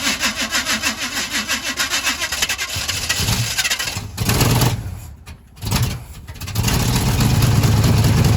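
Chevy small-block 350 V8 being cranked over by the starter with a fast even chug for about three seconds, then firing in a few short surges that stumble between, and catching to run steadily about six and a half seconds in.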